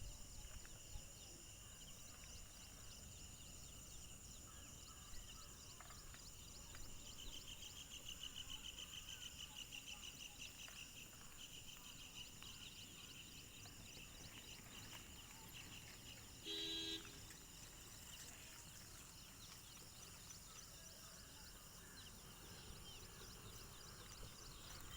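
Faint chorus of insects trilling steadily at a high pitch, with a stretch of rapid pulsing about seven to twelve seconds in. About two-thirds of the way through, a single short pitched call, roughly half a second long, sounds louder than the rest.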